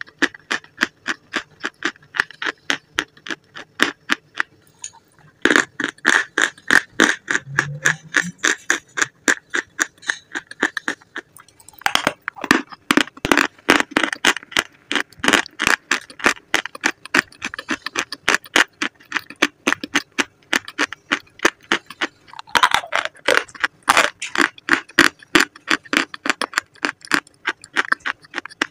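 Chewing and crunching of dry, crumbly white chalky chunks: a rapid run of crisp crackles, with short lulls about four and eleven seconds in.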